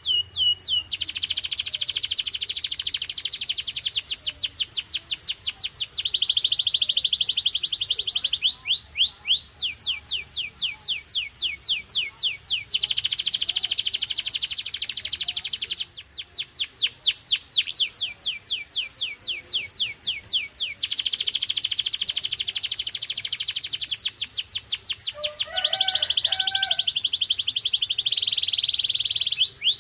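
Domestic canary singing a long, continuous song of high, clear notes. It switches between fast rolling trills and slower runs of repeated downward-sweeping whistles, changing phrase every few seconds.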